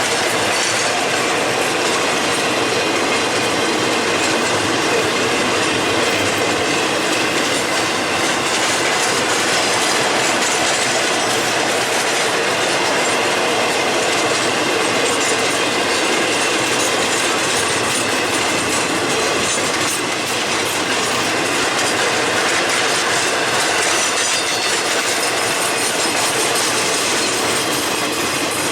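Freight train cars rolling past on steel rails, a steady, unbroken wheel-on-rail noise that stays at the same level throughout.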